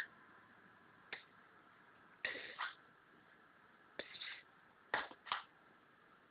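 Faint, short smacking and sucking sounds from a toddler eating and drinking from a sippy cup: a single click, then several brief sounds, some in quick pairs.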